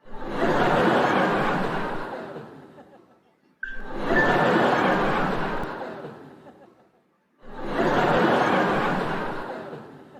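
A group of people laughing in three swells, each starting suddenly and fading away over a few seconds.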